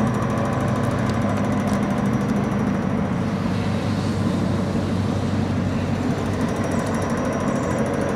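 Dodge Ram 3500's 5.9-litre Cummins straight-six turbo diesel idling steadily.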